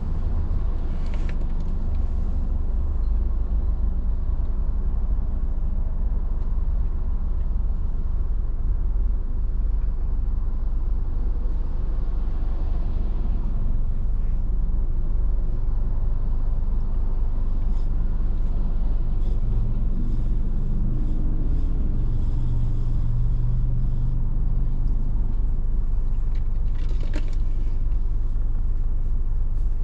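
Road noise of a moving car: a steady low rumble of tyres and engine. A brief, sharper noise comes near the end.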